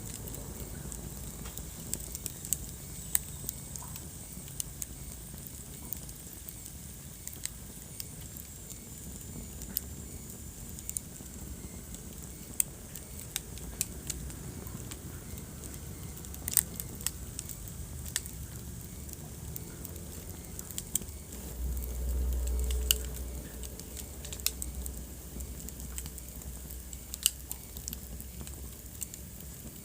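Wood fire crackling in a fireplace: irregular sharp pops and snaps over a steady low rumble of burning. About two-thirds of the way through, the low rumble swells briefly.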